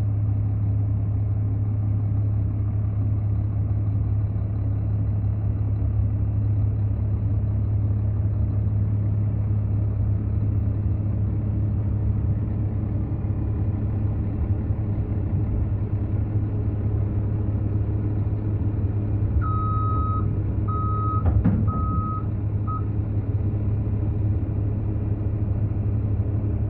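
A heavy-equipment engine running steadily with a deep, even hum. About three-quarters of the way in, a vehicle's backup alarm beeps four times, and a single knock comes among the beeps.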